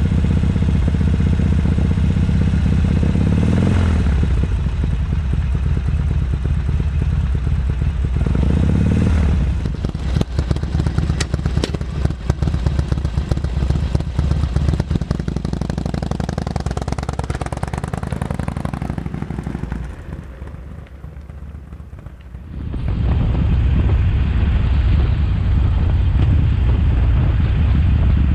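Harley-Davidson Sportster XL1200CX's air-cooled 1200 cc V-twin exhaust note at idle, blipped up briefly twice in the first few seconds. The middle stretch is rougher and clattering, it fades about two-thirds of the way through, and a steady idle comes back near the end.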